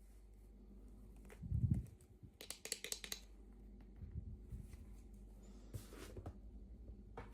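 Hands opening small plastic toy packaging: a dull bump, then a quick cluster of plastic clicks and crinkles about two and a half seconds in, then scattered light taps.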